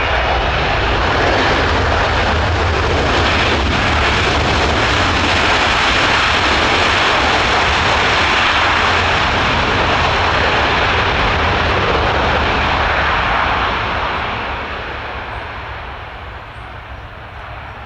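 Loud, steady jet engine noise from the C-17's four turbofan engines, which dies away over the last few seconds.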